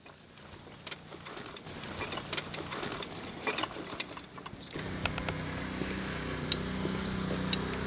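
Scattered knocks and clatter over a steady background hiss, then about five seconds in an engine is heard running steadily.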